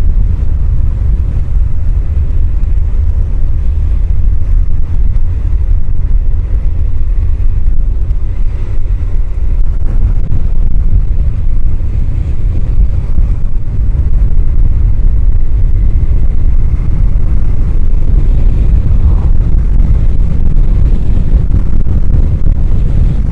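Steady, loud wind rumble on a helmet-mounted microphone at riding speed on a Honda CBR1000F motorcycle. The mic sits right behind the helmet's chin-bar air vent, so rushing air swamps the recording, with the bike's engine and road noise buried under it.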